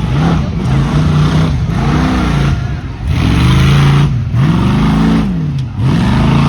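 A 1996 Toyota Tacoma pickup's engine revving hard several times as it drives a tuff truck obstacle course. Each rev rises and falls in pitch, and the next follows about a second later.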